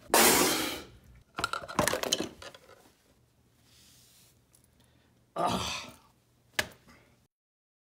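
A man spluttering, coughing and spitting after a swig from a jar, with the grimace of something foul-tasting. It comes in several harsh bursts: the loudest right at the start, a cluster about two seconds in and another near five and a half seconds, then a short click.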